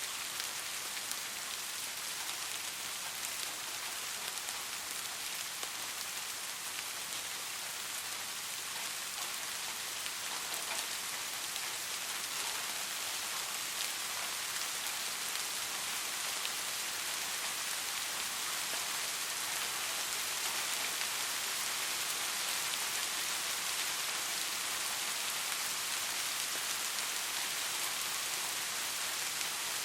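Steady rain falling on a surface, an even hiss of many drops with faint individual drop ticks, growing slightly louder about halfway through.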